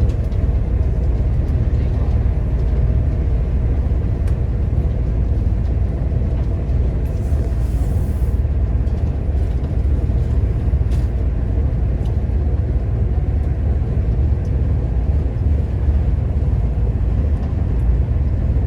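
Steady low rumble of a passenger train running at speed, heard from inside the carriage, with a brief hiss about seven seconds in.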